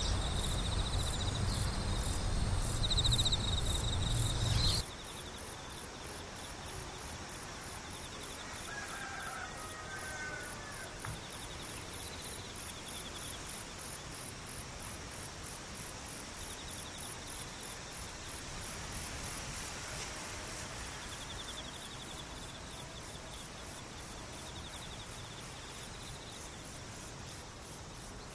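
Chorus of singing insects: a very high chirp repeating steadily about twice a second, with a second insect's trill fading in and out. A low rumble under it stops abruptly about five seconds in.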